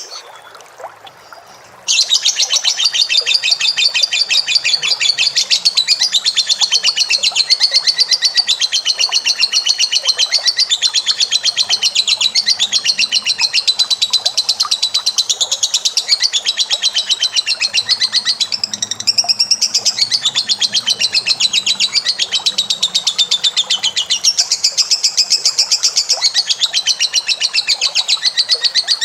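A caged pet bird singing a long, unbroken run of very rapid, high-pitched chattering notes. It starts about two seconds in and falters briefly a little past halfway.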